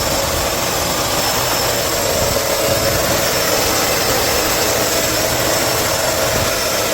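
Vacmaster UB0302E bagged upright vacuum running steadily at full power, with its hose connected to the main body so the brush roll spins.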